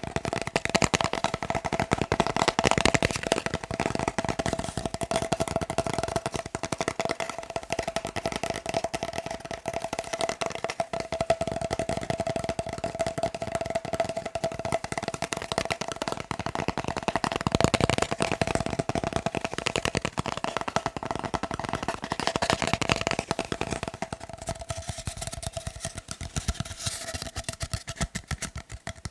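Fast tapping on a paper roll: a rapid, unbroken stream of light taps, with a steady tone underneath.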